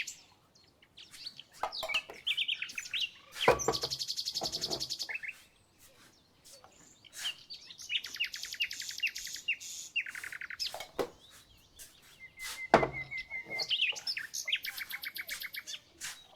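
Several songbirds singing, with fast trills and chirps. Two sharp knocks come through it, about a quarter of the way in and again near three-quarters of the way; the second is the loudest sound.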